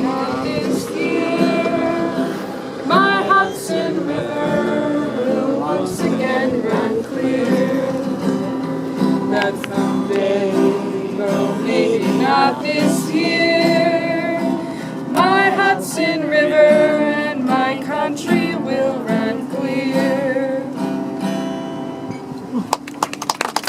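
Voices singing a folk song, with a female voice among them, to strummed acoustic guitar.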